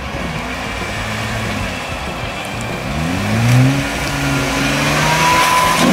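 Jeep Wrangler engine driving on a muddy off-road trail, revving up about three seconds in and then holding steady under load.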